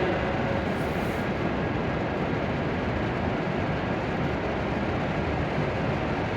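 W7-series Hokuriku Shinkansen train, a steady rushing rumble with no distinct tones or knocks.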